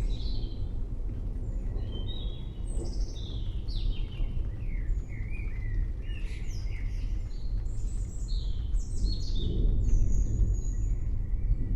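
Several birds chirping and singing, with many short, quick notes, over a steady low rumble that grows a little louder near the end.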